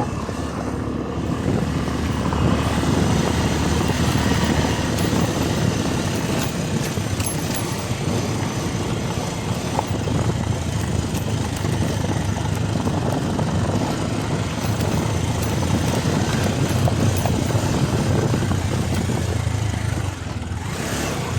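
Vehicle engine running steadily while on the move, mixed with a steady hiss of road and wind noise.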